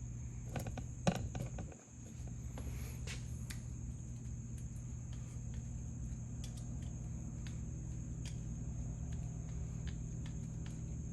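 Steady background hum with a constant high-pitched whine, broken about a second in by a few sharp clicks and a knock, with faint scattered ticks afterwards.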